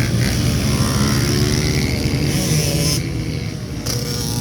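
Small single-cylinder pit bike engines running on a dirt track.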